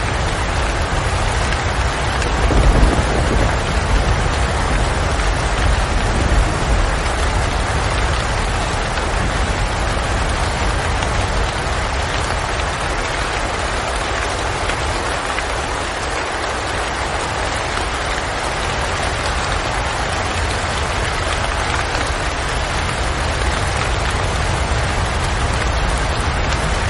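Steady rain falling, an even hiss of drops, with a low rumble swelling briefly about three seconds in and again a few seconds later.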